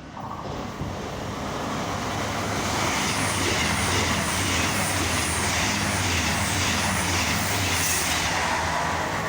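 Train moving past the station platform. Its noise builds over the first few seconds, then holds steady, with a low steady hum and a regular clatter of wheels about twice a second.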